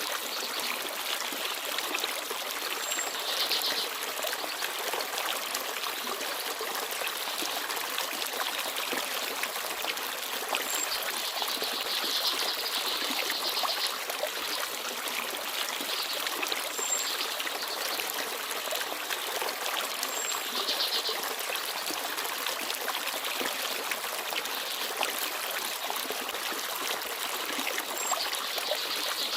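Forest stream babbling steadily, with a few short, high bird chirps every several seconds.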